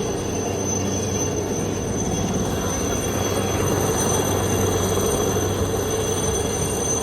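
Aircraft engine noise: a steady rumbling roar that swells slightly about four seconds in.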